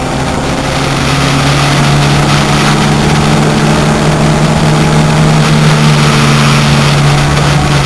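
Turbocharged 1.8-litre four-cylinder engine of a VW Corrado race car, heard from inside the cabin, pulling hard in one gear with the revs held nearly steady and slowly climbing, over heavy wind and road noise.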